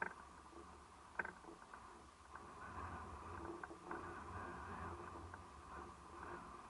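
Faint, steady shoreline ambience of a calm sea, with a low rumble and a few short clicks, the sharpest about a second in.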